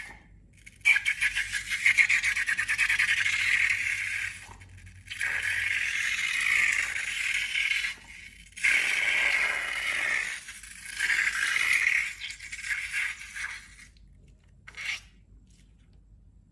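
Slime being worked by hand, making crackly scraping sounds in four bursts of a few seconds each, with one short burst near the end.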